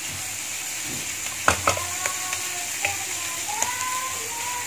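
Onion-tomato masala frying in mustard oil in a non-stick pan, with a steady sizzle, while a plastic spoon stirs it, knocking and scraping against the pan several times in the middle.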